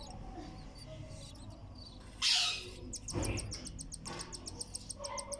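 Baby cockatiel chicks peeping in a fast, even run of high, thin calls, the begging calls of chicks being fed. A brief loud scratchy noise comes just before the peeping starts.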